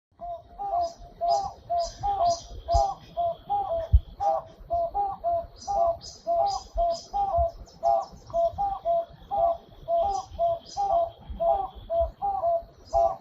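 Toucan calling: a steady series of short, repeated calls, about two a second, with fainter high chirps above them and a single low thump about four seconds in.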